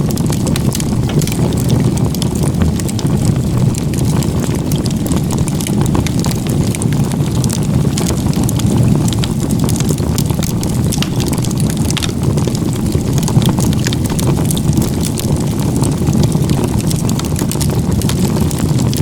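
Wood fire of crib-stacked (igeta-gumi) firewood burning, with frequent irregular crackles and pops over a steady low rumble.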